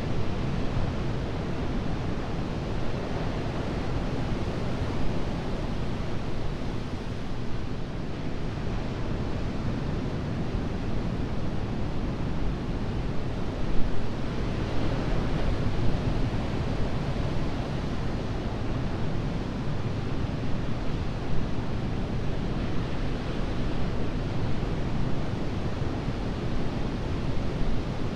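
Atlantic surf breaking and washing onto the beach: a continuous rushing with a louder wave surging about halfway through.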